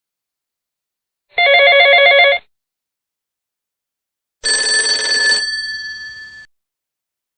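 Telephone bell ringing: one trilling ring lasting about a second. A few seconds later comes a different sound, a short noisy hit followed by a few clear ringing tones that fade out over about a second.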